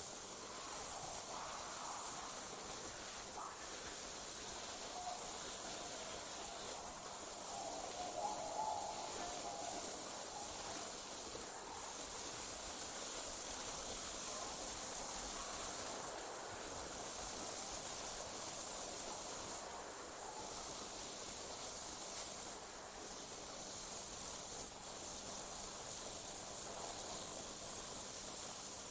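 Crickets trilling in a steady, high-pitched night chorus that drops out briefly every few seconds.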